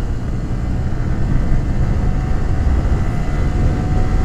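Exhaust note of a Yamaha R15 V3's 155 cc single-cylinder engine running steadily.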